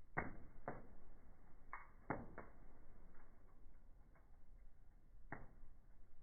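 Wood fire crackling in a fireplace, with about half a dozen sharp pops scattered irregularly over a faint steady crackle, most of them in the first two and a half seconds and one more a little after five seconds.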